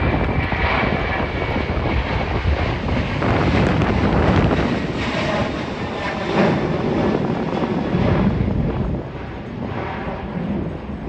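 Boeing 737 jet engines: a loud, steady rushing roar with a faint high whine at first, easing off about nine seconds in as the aircraft passes.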